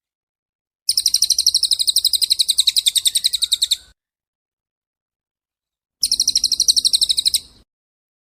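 Small songbird singing a rapid, high trill of evenly repeated notes, about a dozen a second, in two phrases: a long one of about three seconds, then after a pause a shorter one of about a second and a half.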